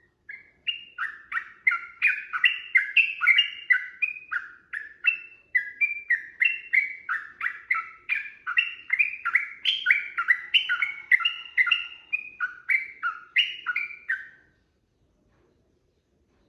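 Sooty-headed bulbul (trucukan) singing a long, fast run of short chirping notes, roughly two to three a second, stopping about fourteen seconds in.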